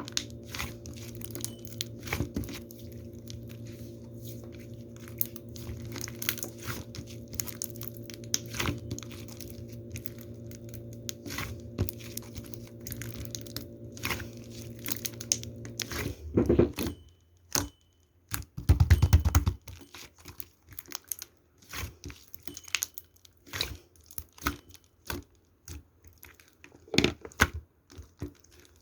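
Hands squishing and stretching slime, making dense crackling clicks and pops, over a steady low hum that stops about two-thirds of the way through. There is one louder, deeper handling noise shortly after that.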